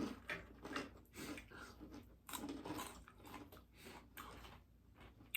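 Quiet, close-up chewing and crunching of crispy fried chicken and bacon lettuce wraps: a run of short, irregular crunches and mouth clicks.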